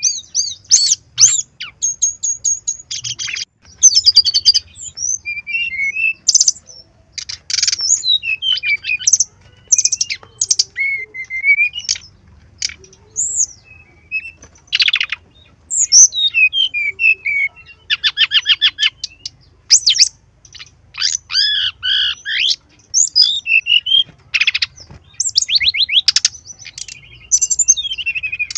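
Brown-chested jungle flycatcher singing a fast, varied song of rapid trills, chattering runs and high whistled slurs, phrase after phrase with short breaks.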